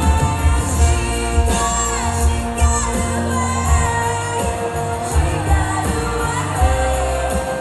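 A woman singing a slow pop song live, with amplified band backing and a heavy, pulsing bass under the melody.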